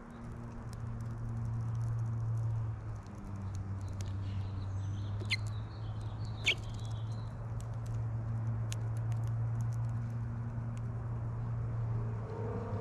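A few short, sharp chirps from a house finch at a feeder, two of them clear about halfway through, among scattered light clicks and taps. A steady low hum runs underneath.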